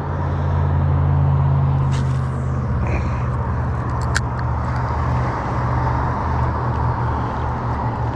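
A motor running with a steady low hum, louder in the first few seconds and easing slightly after, with a couple of faint ticks.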